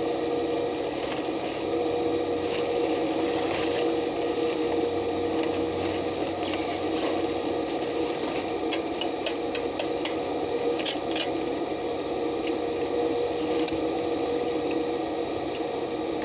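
Stick (shielded metal arc) welding on steel: the electrode's arc crackles and sizzles steadily, with a constant hum under it and scattered sharp pops.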